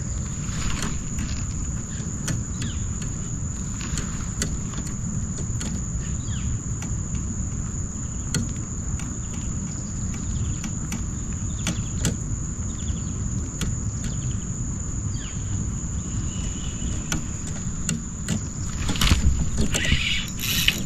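A steady high insect drone over a low outdoor rumble, with scattered sharp clicks and a louder burst of handling noise near the end.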